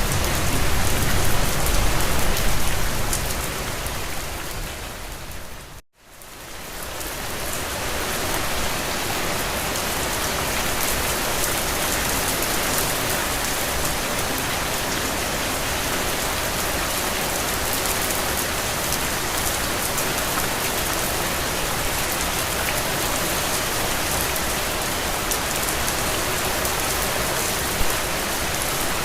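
Steady rain falling. About six seconds in, the sound fades out to a brief silence and fades back in, then carries on evenly.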